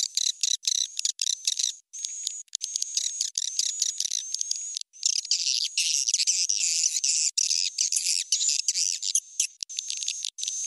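Swiftlet calls played as a lure for a swiftlet house: rapid high-pitched chirps and twittering trills, nothing below the high range, with short breaks about two and five seconds in.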